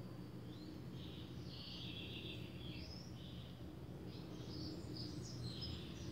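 Birds chirping in the background: short, quick, gliding calls in little clusters, over a low steady background hum.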